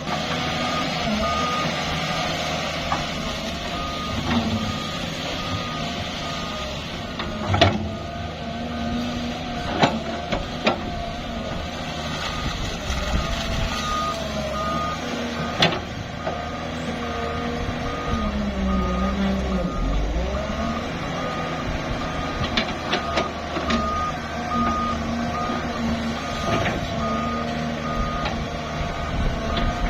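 Diesel engine of heavy construction machinery running steadily, with a reversing alarm beeping at an even pace on and off, and a few sharp metal clanks.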